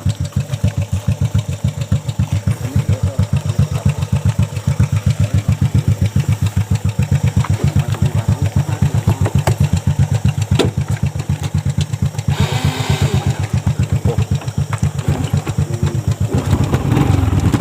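A small engine running with an even, low thumping beat of several strokes a second, picking up and running louder and smoother near the end.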